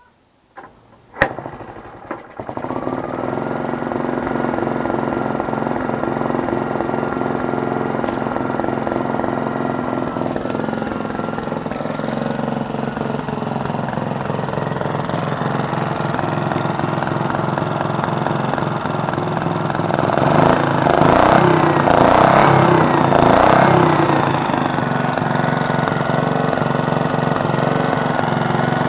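1947 Briggs & Stratton Model NS single-cylinder engine being kick-started: a few sharp knocks, then it catches about two seconds in and runs steadily. It runs louder and rougher for a few seconds about two-thirds of the way through, then settles back.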